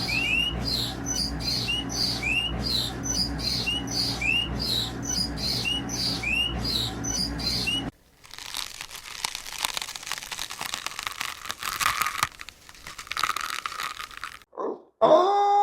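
An animal's short, high rising chirps, repeated about every half second for some eight seconds, followed by a crackling, rustling noise.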